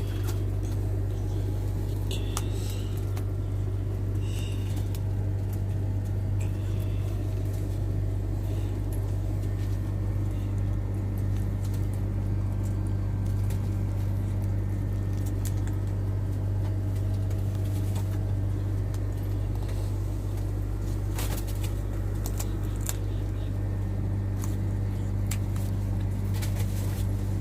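A steady low mechanical hum, with scattered light clicks and a couple of short high chirps in the first few seconds.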